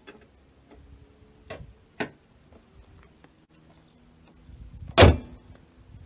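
Two sharp clicks, then a single loud slam about five seconds in, with a short ring after it.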